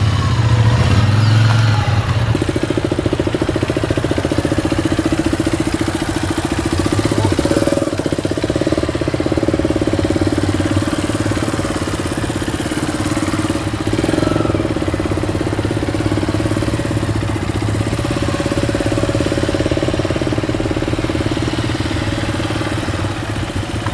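Motorcycle engine running steadily at low revs, with small swells in throttle, typical of slow-speed riding.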